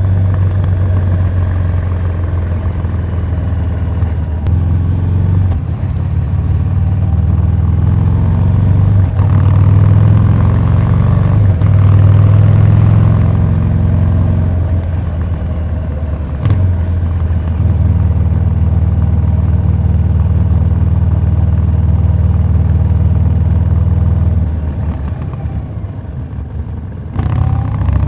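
Harley-Davidson Street 750 V-twin running through a Vance & Hines slip-on exhaust. The engine note steps up and down several times, is loudest about ten to twelve seconds in, and drops low near the end before picking up again.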